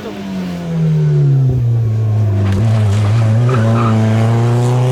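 Rally car engine, loud, its pitch falling over the first two seconds as it comes off the throttle, holding low, then rising again near the end as it accelerates.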